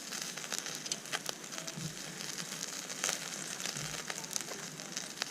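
Campfire crackling, with irregular sharp pops and snaps over a steady hiss.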